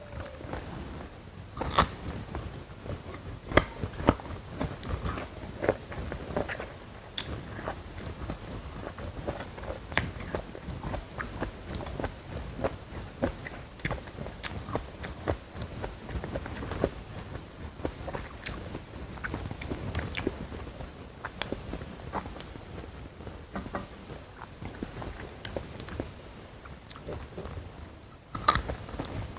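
Close-miked ASMR eating: crunchy bites and steady chewing, with sharp crisp cracks scattered throughout.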